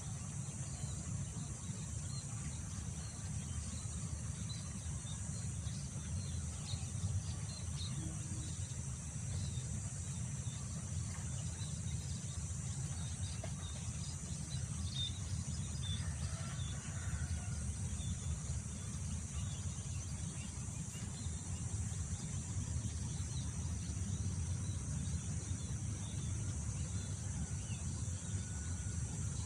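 Wind rumbling low on the microphone over a steady high-pitched drone of insects, with scattered faint short chirps from birds or insects.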